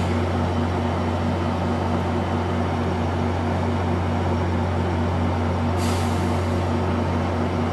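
Metrolink F59PH diesel locomotive idling with a steady low drone, and a short hiss of released air about six seconds in.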